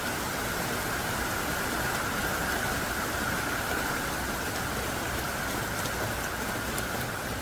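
Heavy rain pouring down steadily, a dense even hiss of large drops with occasional faint ticks of single drops.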